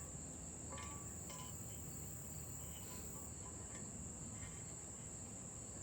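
Steady high-pitched chorus of crickets, with a few faint light clicks about a second in.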